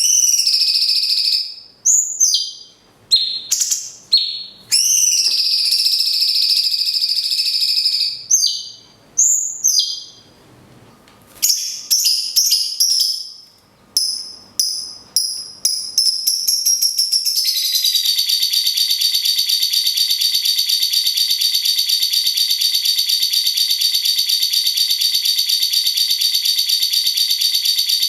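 Cage-bird song: loud, drawn-out high whistled calls and short gliding notes in stops and starts, typical of a cucak cungkok. Then, about 17 seconds in, a lovebird's long 'ngekek' chatter starts: a fast, steady rattling trill that keeps going.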